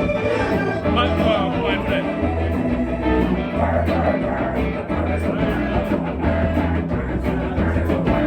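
Live rock and roll band playing over a repeating bass line and steady drum beat, with guitar and brief singing.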